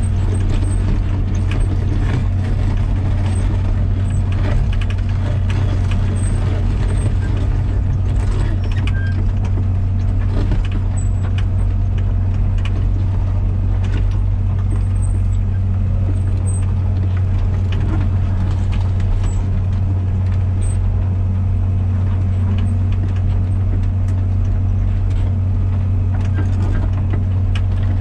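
Komatsu PC120-6 excavator's diesel engine running steadily with a strong low hum while the machine is worked, with scattered light clicks and knocks.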